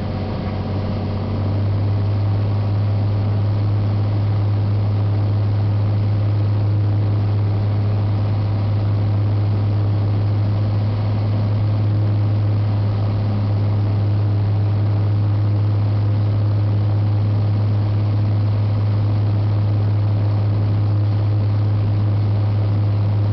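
Cessna 182T's six-cylinder Lycoming IO-540 engine and propeller running steadily, a constant low drone that gets a little louder about a second and a half in.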